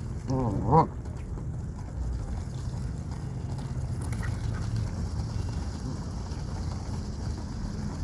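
A waterfowl call: one wavering call about half a second long near the start, over a steady low rumble.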